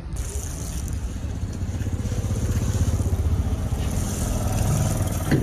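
Motorbike engine running close by, a fast low rumbling pulse, with a short sharp louder sound just before the end.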